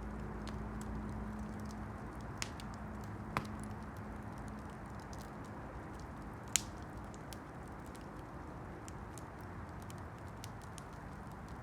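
Wood campfire crackling: many small ticks over a steady low hiss, with three sharper pops, the loudest a little past the middle.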